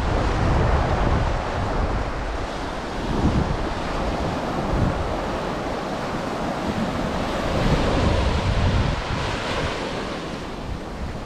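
Ocean surf washing steadily onto a sandy beach, with wind buffeting the microphone and adding a low rumble.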